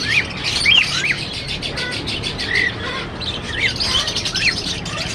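Many small cage birds chirping together: a fast, dense chatter of high calls with short chirps sweeping up and down over it.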